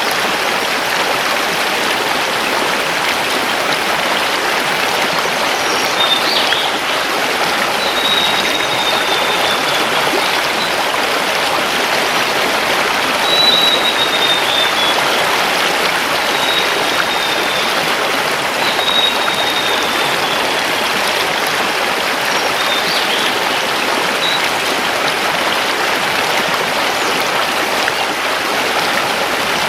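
River water rushing steadily over stones. A bird gives about half a dozen thin, high, slightly falling whistled notes and short chirps over it.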